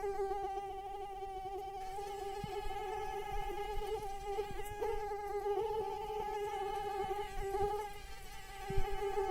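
Mosquito in flight: the steady, thin whine of its beating wings, wavering slightly in pitch.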